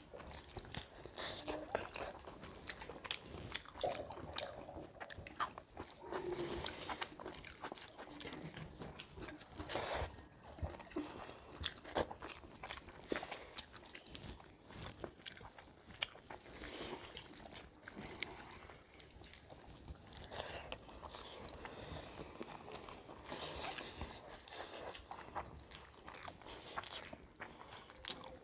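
Two people eating rice and curry with their fingers from steel plates: quiet, irregular chewing and mouth smacks, with the soft squish and tap of fingers mixing rice on the plates.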